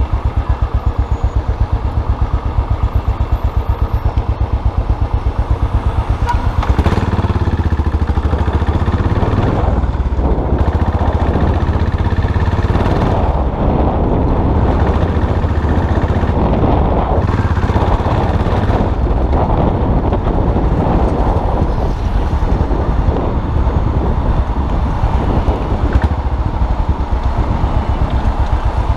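Custom motorcycle engine running while riding, a steady fast pulse of firing strokes. It gets louder and fuller about seven seconds in and stays so.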